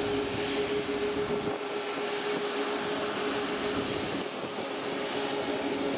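Jet airliner engines running at low taxi power, heard as a steady rushing hiss with a faint steady hum under it. A low rumble drops away about a second and a half in.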